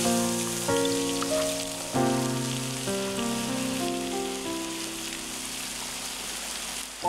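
Diced onion and tomato sizzling in hot oil in a frying pan over a campfire, a steady hiss that starts as the vegetables hit the pan. Louder background music of plucked, fading notes plays over it.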